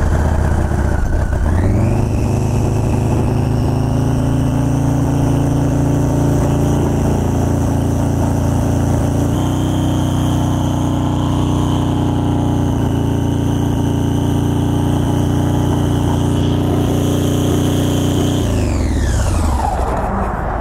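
Orange County Chopper's engine climbing in revs about two seconds in, then holding at one steady speed with a high whine over it, and winding down near the end. The bike would not pull any harder because the throttle position sensor screw had backed out and fallen off, leaving no throttle at higher RPMs.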